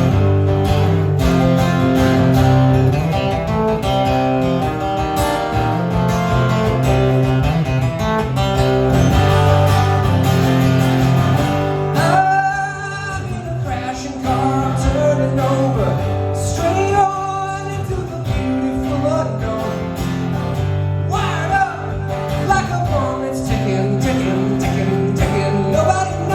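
Guitar strumming chords through an instrumental break in a live song. About halfway through come a few gliding, wavering high notes.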